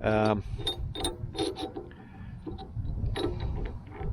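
Steel parts of a Spanesi lift sliding up and down on their bolts, a run of small irregular metal clicks and knocks. The parts move freely now that the bent bolts have been straightened.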